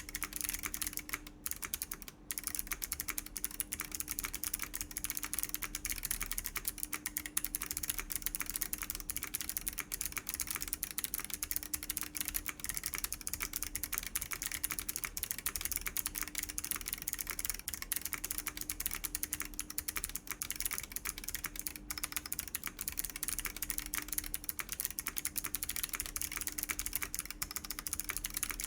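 Continuous typing on a Chilkey ND104 mechanical keyboard with WS BigLucky clicky switches, PBT doubleshot keycaps and an FR4 plate: a dense stream of sharp key clicks, with two short breaks a second or two in.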